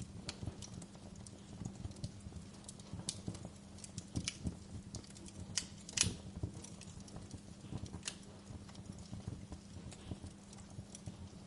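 Wood fire crackling in a fireplace: irregular pops and snaps over a low steady rumble, with the loudest pop about six seconds in.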